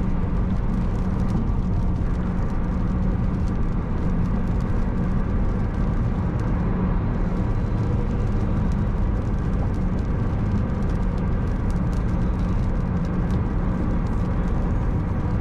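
Steady road and engine noise inside a moving car's cabin: a continuous low rumble with a faint steady hum.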